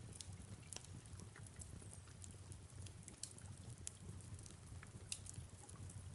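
Faint fireplace ambience: a wood fire crackling with irregular sharp pops, over a low steady rumble and the soft hiss of rain.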